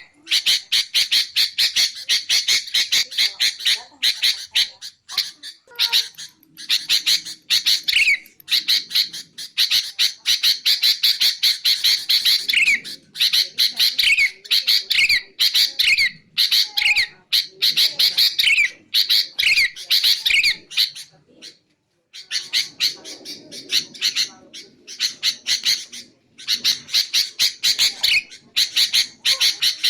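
Sooty-headed bulbul (kutilang) calling: a fast, harsh chatter of rapid repeated notes mixed with short down-slurred whistles, with a brief pause about two-thirds of the way through.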